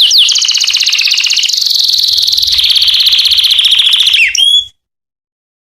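Male canary singing: a series of rapid trills of repeated high notes that change speed and pitch from one run to the next. The song cuts off abruptly near the end.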